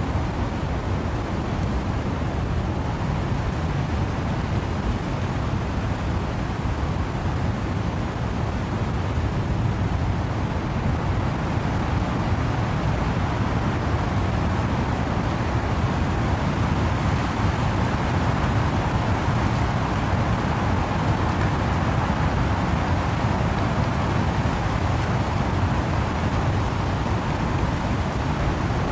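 Wind and rain in trees: a continuous rushing noise with a heavy low rumble, swelling a little in the middle.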